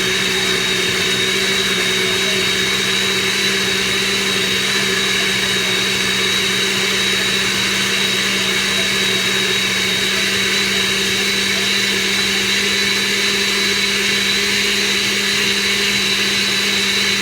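Blender running steadily, blending frozen strawberries with almond milk and aloe water into a smoothie: a constant motor hum with a high whine.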